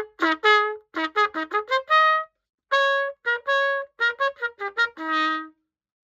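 Restored pocket cornet played solo: a phrase of short tongued notes with quick runs, a brief pause midway, and a lower held note that closes the phrase about five and a half seconds in.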